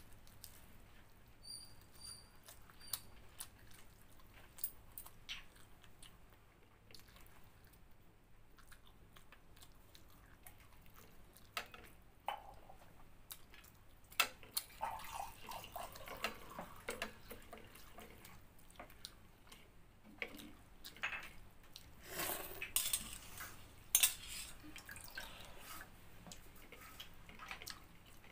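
A person eating chicken curry with pakhala, watery fermented rice: scattered wet smacks and chewing, with sharp clicks of the plate or fingers against it. The loudest moments come as short clusters about halfway through and again near the end.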